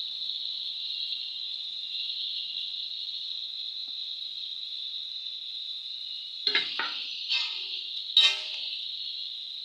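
Onions and spices frying in oil in a metal wok: a steady sizzle. Near the end, a spatula knocks and scrapes against the pan several times.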